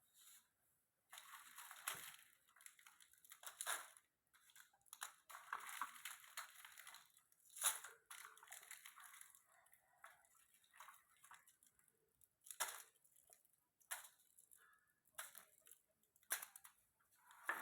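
Faint, irregular crunching and rustling noises with a few sharp clicks, coming in uneven bursts with no steady engine tone.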